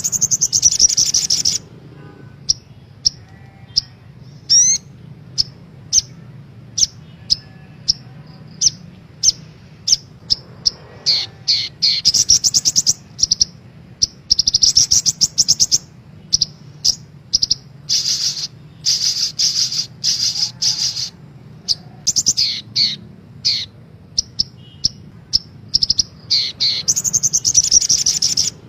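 Little spiderhunter (sogok ontong) calling: sharp, high single chips repeated at irregular intervals, broken several times by fast rattling trills lasting a second or more.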